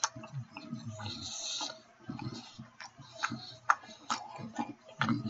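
A man chewing a ribeye steak sandwich on a hoagie bun: irregular wet mouth clicks and smacks with low mouth sounds in between.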